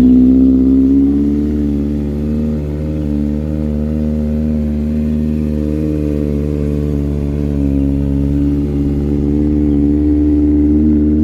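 Kawasaki ZX-6R inline-four engine idling steadily just after a cold start, its level easing slightly about a second in and firming a little near the end.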